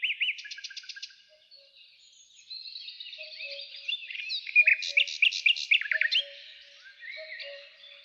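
Several songbirds singing and chirping at once, fast varied trills and chirps. From about halfway, a lower two-note call from another bird repeats about once a second.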